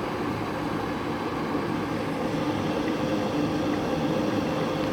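Silvercrest SWKD 2400 B2 electric kettle heating water: a steady rushing hiss of the water coming up toward the boil, growing slightly louder. It is heating back up after cold water was added.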